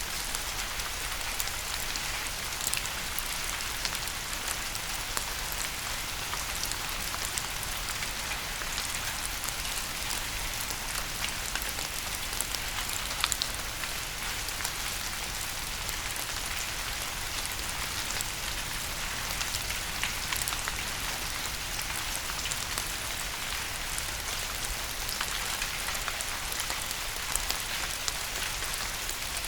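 Steady rain falling, an even hiss with many small drops pattering close by.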